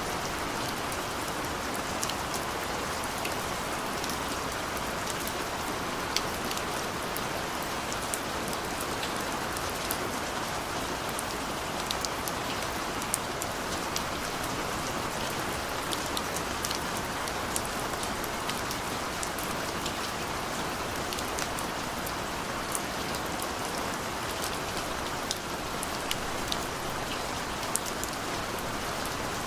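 Steady rain falling, a dense even hiss with the sharp ticks of individual drops hitting a surface scattered throughout.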